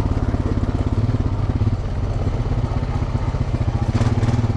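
Off-road vehicle engine running steadily at low trail speed, with a brief rattle about four seconds in.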